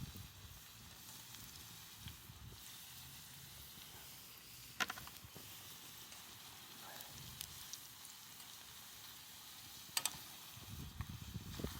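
Wood campfire crackling faintly, with a sharp pop about five seconds in and another about ten seconds in. Some low knocks come near the end.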